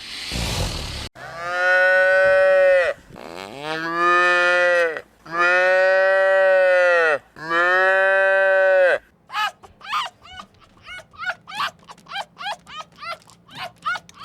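Cow mooing: four long, drawn-out moos one after another, after a brief rush of noise at the start. From about nine seconds in, a run of short, quick high-pitched animal calls, several a second.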